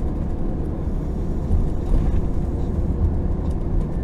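Steady low rumble of road and engine noise heard inside the cabin of a moving vehicle at driving speed.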